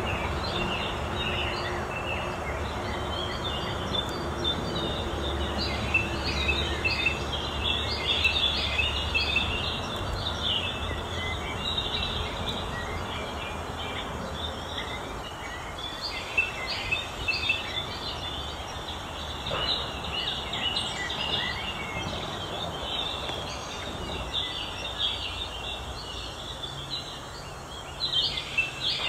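Birds chirping: many short calls overlapping at irregular intervals, over a low hum that is strongest in the first third.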